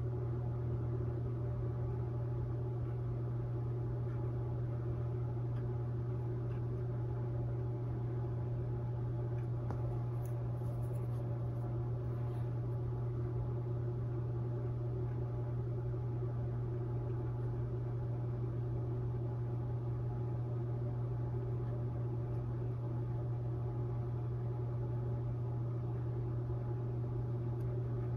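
Steady low hum with faint overtones, unchanging throughout.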